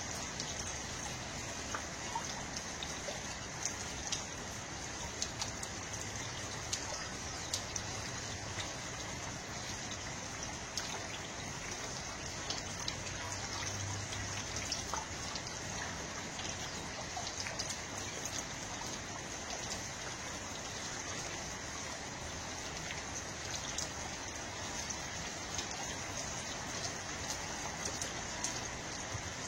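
Steady water noise: an even hiss dotted with many small, irregular drips and ticks.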